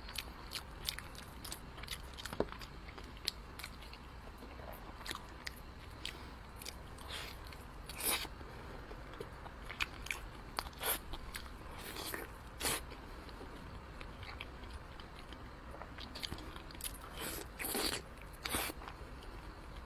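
Close-miked biting and chewing of braised pork: wet, sticky mouth smacks and clicks at irregular intervals, with a few louder bites around the middle and a cluster near the end.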